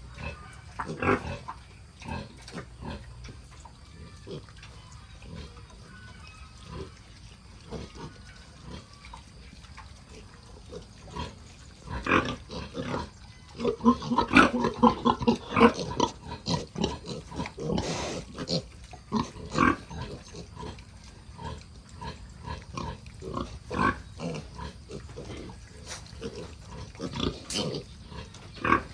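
A sow and her piglets grunting at feeding, with many short smacking and clicking sounds. About halfway through there is a louder run of pitched calls.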